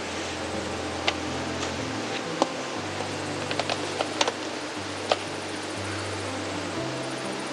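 Wood fire crackling, with irregular sharp pops over a steady hiss, under soft background music with low held notes.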